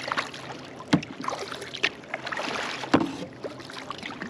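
Paddle strokes splashing in lake water from a kayak under way, with two sharp knocks about two seconds apart.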